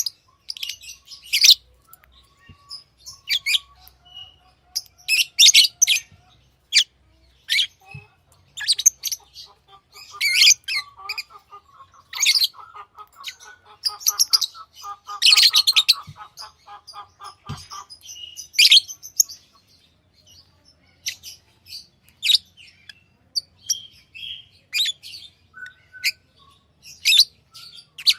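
Pet lovebirds chirping: many short, sharp, high-pitched calls in quick succession, with a lower, fast stuttering chatter for several seconds in the middle.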